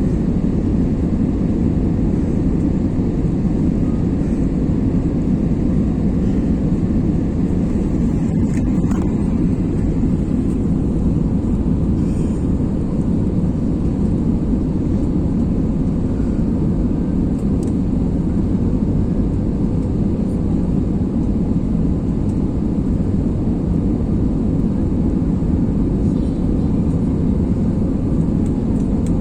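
Airbus A320 airliner cabin noise: a steady, low rush of jet engines and airflow, even in level throughout.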